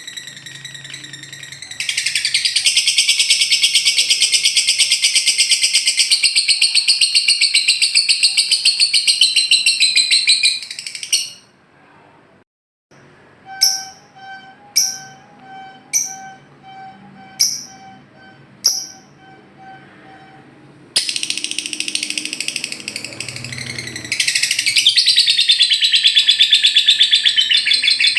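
Recorded lovebird song: long, fast, chattering trills of the kind called ngekek, broken in the middle by a short pause and a run of sharp chirps about once a second over a pulsing lower note.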